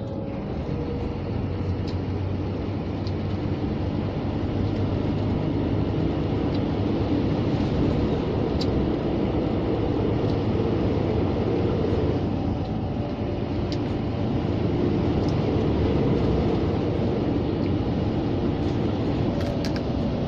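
Scania G460 truck's engine and road noise heard inside the cab while driving, a steady drone with a few faint ticks.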